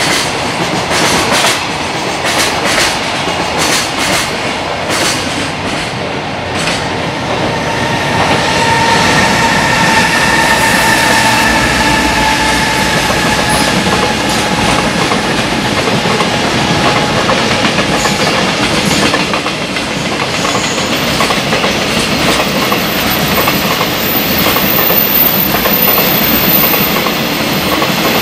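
Long container freight train rolling past, its wheels clacking rapidly over the rail joints. From about a third of the way in the clacking gives way to steadier running noise with a steady high whine.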